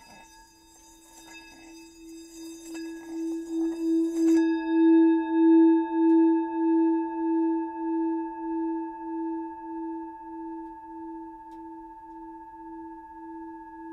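One long ringing tone that swells over the first few seconds and then slowly fades, wavering in loudness a little under twice a second. A faint high shimmer over it stops about four seconds in.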